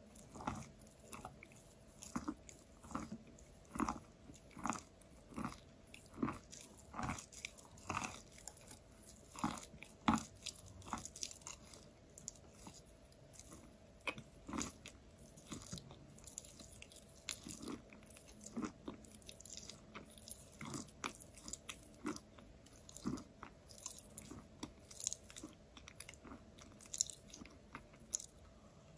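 Close-up chewing of a mouthful of soft chalk: short, quiet crunches roughly once a second, with a faint steady hum underneath.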